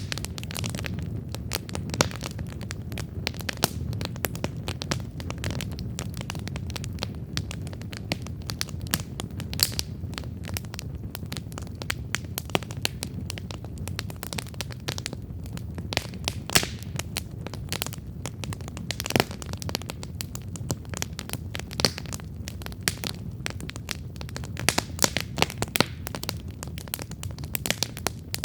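Wood campfire burning, with irregular sharp crackles and pops over a steady low rush of flame.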